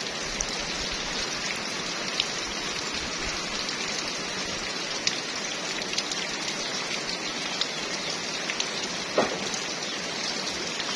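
Rain falling steadily, an even hiss dotted with sharp drop ticks, with one short sharper sound about nine seconds in.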